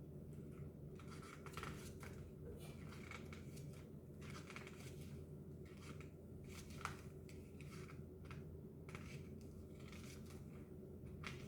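Paper rustling and pages being turned by hand, soft scattered rustles and scrapes, over a faint steady low hum.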